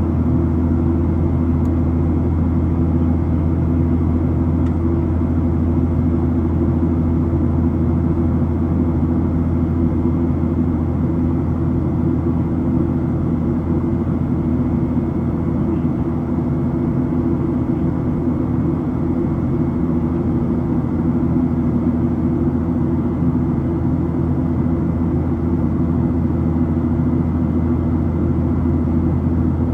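Steady drone of a Boeing 737-700's CFM56 engines heard inside the passenger cabin, loud and unchanging, mostly low rumble with a faint steady whine above it.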